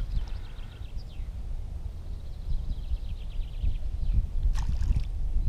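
A small bird chirping faintly in quick trills of ticks, twice, over a steady low rumble, with one short click about four and a half seconds in.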